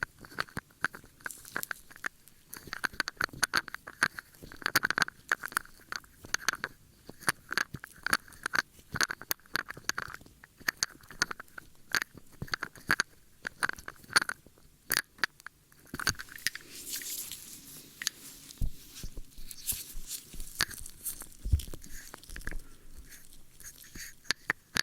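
Close-up ASMR ear-cleaning sounds: dense crackling, clicking and scraping right against the microphone. About sixteen seconds in, the sound shifts to a brighter, more continuous rubbing.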